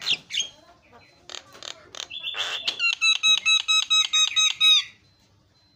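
Javan myna singing: harsh chattering calls, then a fast run of repeated ringing whistled notes, about five a second, that stops about five seconds in.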